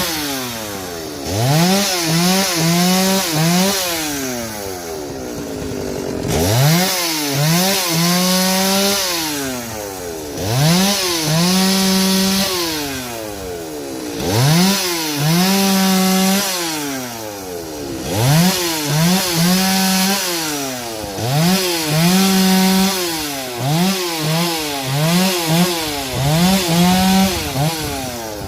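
Two-stroke chainsaw cutting through the ends of wooden rafters. It is revved to full throttle and held for a second or two on each cut, then drops back toward idle between cuts. Several quick throttle blips come in between.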